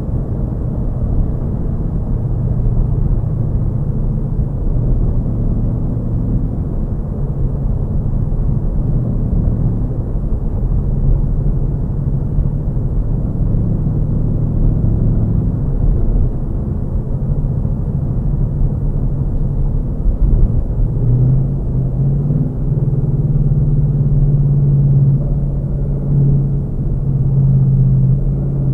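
2018 Ford Mustang GT's 5.0-litre V8, with its 10-speed automatic, running at low town speed, heard from inside the cabin as a steady low rumble. About twenty seconds in, the engine note steps up and grows stronger.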